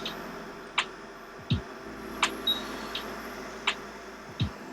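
Steady blowing hum of a hot air rework station heating a circuit board, with a short sharp click about every one and a half seconds.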